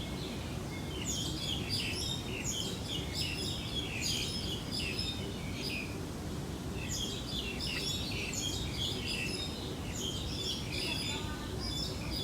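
Small birds chirping in quick clusters, twice over, over a steady low background noise.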